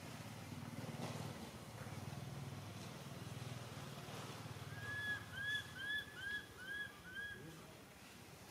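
A bird calls a quick run of six short, arched whistled notes about halfway through, over a low steady rumble.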